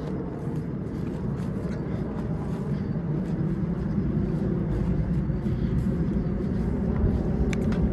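Low, steady rumble of an aircraft flying low overhead, slowly growing a little louder.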